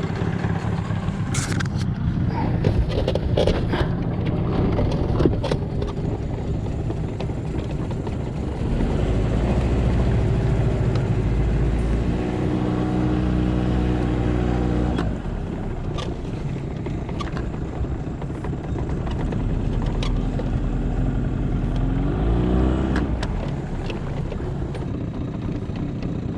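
Boat motor running steadily, growing louder for several seconds in the middle as it is throttled up, then easing back.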